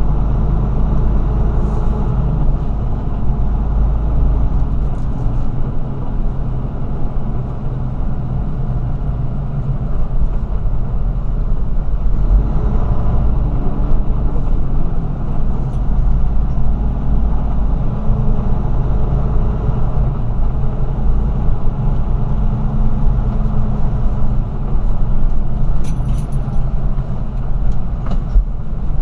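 Car driving, a steady low engine and road rumble throughout.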